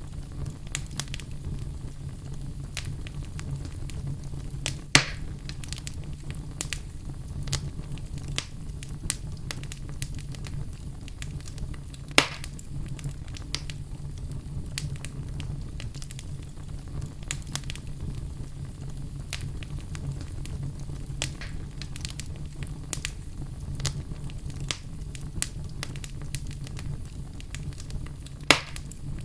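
Wood fire burning in a fireplace, crackling steadily with many small clicks over a low rumble, and three louder sharp pops spread through it.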